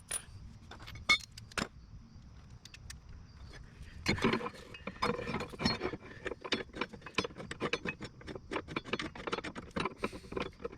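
Metal hardware being worked by hand: a steel bracket and bolts clinking against the skid plate. There are a few scattered clinks at first, then from about four seconds in a fast run of small metallic clicks.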